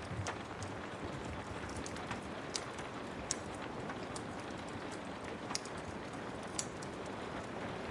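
Steady rain with a wood fire crackling, giving a few sharp pops scattered through it.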